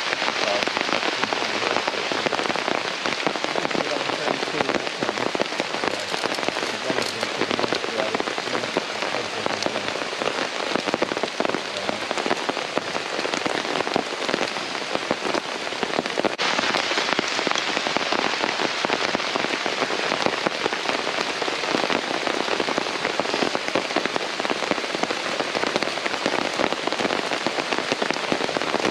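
Steady rain falling, a dense patter of many small drop hits. It gets slightly brighter a little past halfway.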